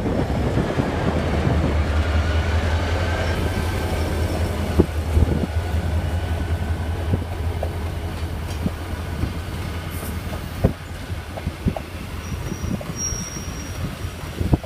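Diesel train rolling past with a low engine drone and a faint wheel squeal, its wheels clicking over rail joints, gradually fading away.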